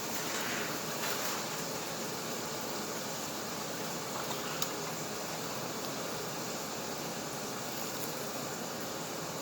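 Steady, even background hiss with one faint click about four and a half seconds in.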